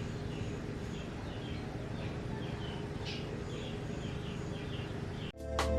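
Small birds chirping in short, repeated notes over a steady low background hum. Music starts abruptly near the end.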